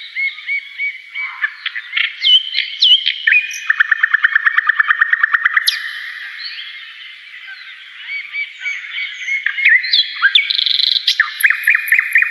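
Several songbirds chirping and calling over one another, with a fast trill of about ten notes a second in the middle.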